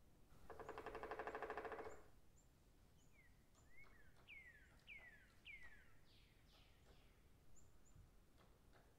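Forest birds calling. A loud rapid rattling trill lasts about a second and a half near the start, followed by a run of downward-slurred whistled notes about half a second apart, with faint high chips.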